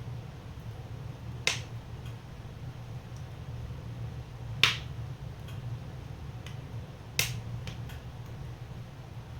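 Wood fire crackling in a wood burner: three loud sharp pops about a second and a half, four and a half, and seven seconds in, with fainter ticks between them over a steady low rumble of the burning fire.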